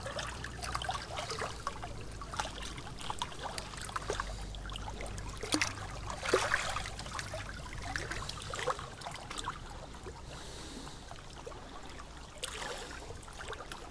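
Water trickling and splashing in small irregular splashes, over a low steady rumble.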